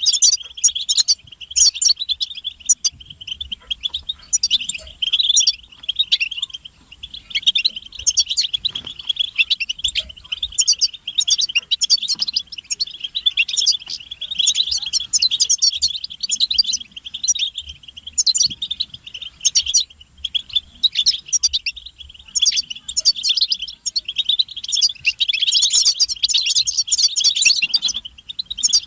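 A group of European goldfinches giving rapid chattering, twittering calls and song, many birds at once, in dense runs with brief pauses. These are the excited calls used to stir a silent male goldfinch into singing.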